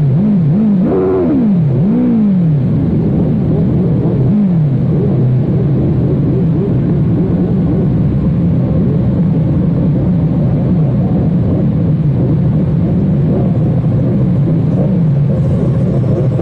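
Sport motorcycle engine revving in several quick rises and falls of pitch during the first few seconds, then running at a steady pitch as the bike rides along.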